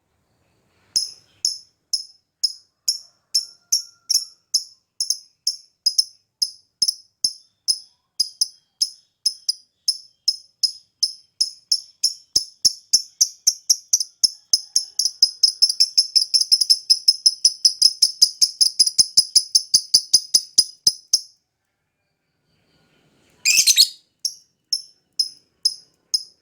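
Lovebird calling in sharp, high chirps, about two a second at first, quickening into a fast, near-continuous trill that cuts off suddenly. After a pause comes one short harsh screech, then a few more chirps.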